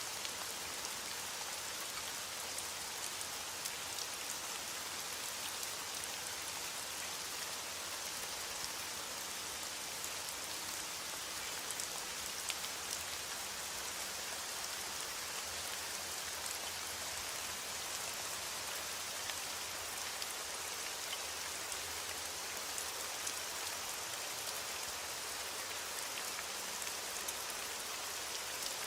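Steady rainfall, an even hiss of rain with scattered small drop ticks.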